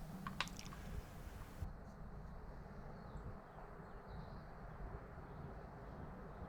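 Quiet outdoor ambience: a steady low rumble, a few light clicks about half a second in, and faint distant bird calls.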